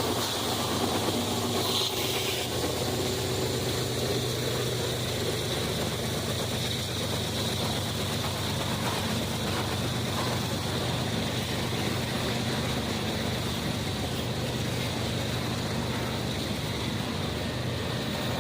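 Train rumbling steadily past, a constant low diesel drone under a fine mechanical rattle.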